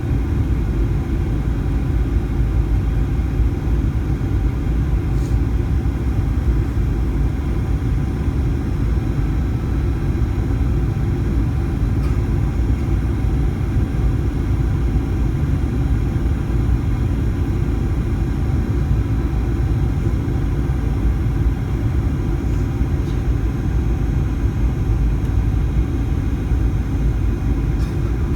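Steady low rumble of engine and airflow noise inside the cabin of a Boeing 737-900ER in flight, with a few faint ticks.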